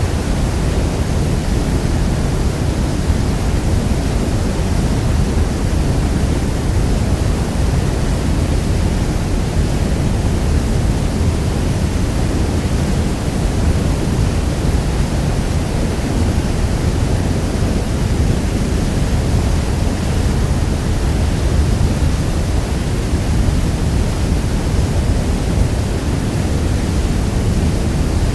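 Niagara Falls: the steady, deep rush of a huge volume of falling water, even and unbroken, heaviest in the low end.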